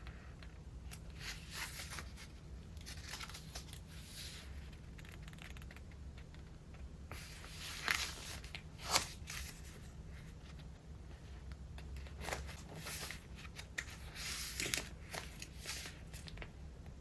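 Pages of a thick collage-filled traveler's notebook being turned and handled: irregular paper rustling and crinkling, with a few louder page flips in the middle and near the end.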